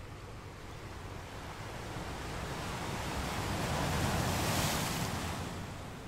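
Ocean surf breaking on a shore: the rush of water swells to a peak about two-thirds of the way through, then eases off.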